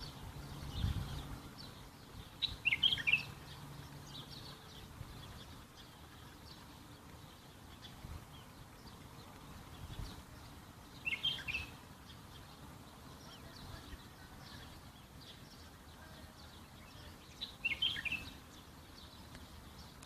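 Small birds chirping in the countryside: one bird gives a short burst of chirps three times, roughly every seven or eight seconds, over fainter chirps from others.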